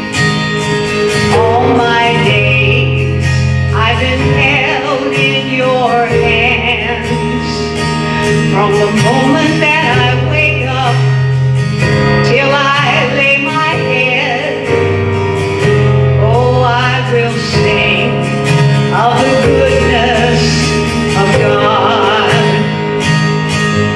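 Worship song: a singer's voice over guitar and steady sustained chords, playing without a break.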